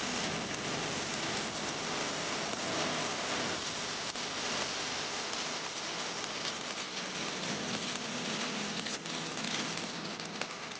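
Steady hiss of water splashing, even throughout, with faint ticks.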